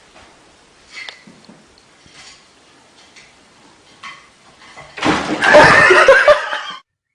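Loud burst of human laughter about five seconds in, lasting under two seconds and cut off abruptly, after a few faint knocks.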